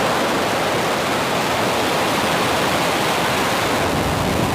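Falcon 9 rocket's nine Merlin engines firing through liftoff and climb: a loud, steady rushing noise.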